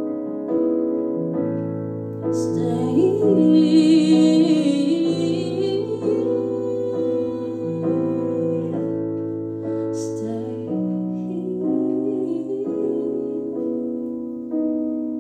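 Piano chords played in a slow ballad, with a woman's voice singing short wordless phrases over them twice.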